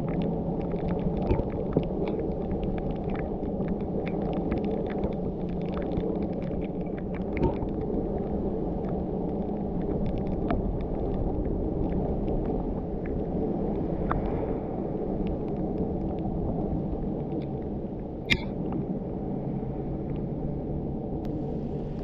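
Car driving: a steady low engine hum and road rumble, with scattered faint ticks through the first half and one sharp click late on.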